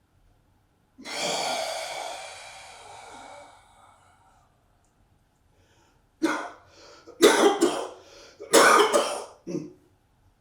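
A long, forceful, partly voiced exhale through a rounded mouth at the end of a qigong breath-hold, fading over about three seconds. After a pause come four or five short, loud coughs in quick succession.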